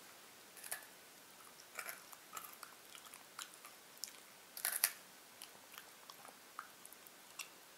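Faint chewing of crispy fried baby clams, with scattered small crunches and a louder pair of crunches about four and a half seconds in.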